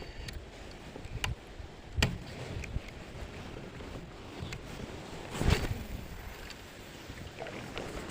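Handling noises in an inflatable fishing boat: a few sharp knocks and clicks, then a brief rustling burst about five and a half seconds in, over a low wind haze.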